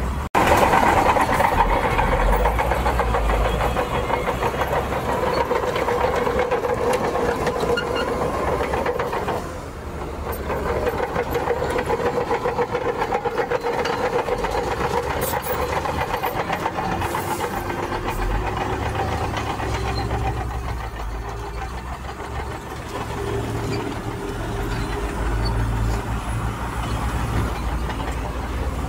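Diesel engine of heavy earthmoving equipment running steadily under load, with a brief drop in level about a third of the way in.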